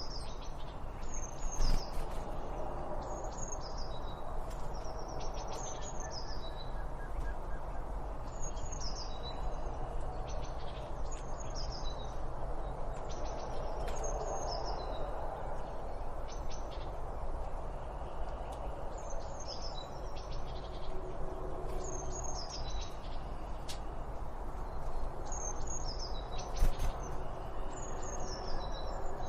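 Birds chirping: short, high, falling chirps repeated about once a second with a brief pause partway through, over a steady low background hiss and a few sharp clicks.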